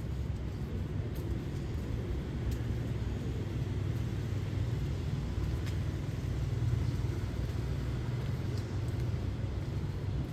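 Street traffic passing: a low, steady engine noise that grows a little louder past the middle, with a few faint clicks.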